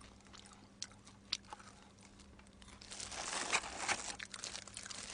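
Close-miked chewing of fried chicken with small crunches and mouth clicks. About three seconds in comes a louder crinkly rustle as a plastic-gloved hand digs into the paper chicken box.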